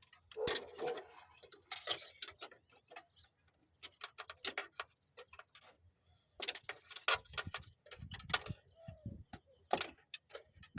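Irregular clicks, taps and rustles of hands working with wiring and parts, bunched more thickly in the second half.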